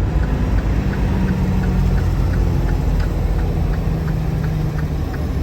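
Car interior while driving: a steady low engine and road hum, with a faint, regular ticking about three times a second.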